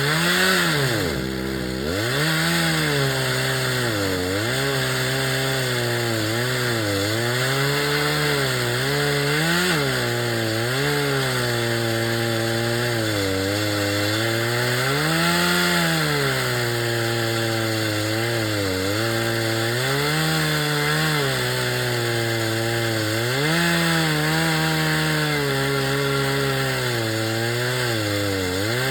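Large chainsaw mounted in an Alaska chainsaw mill, ripping lengthwise along a log at high revs. The engine pitch sags and recovers again and again as the chain loads up in the cut, with a deeper dip about a second in.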